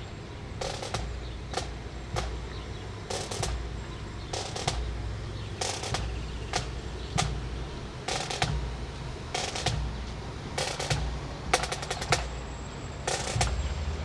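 Parade drums, snare-type, struck in sharp hits about once a second, with a quick roll about eleven and a half seconds in, over a low steady rumble.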